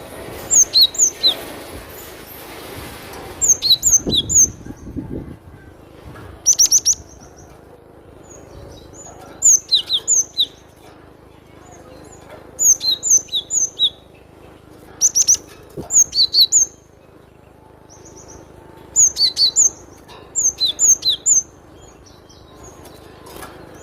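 Cinereous tit (gelatik batu) singing: about eight short phrases of quick, sharp high notes, one phrase every two to three seconds.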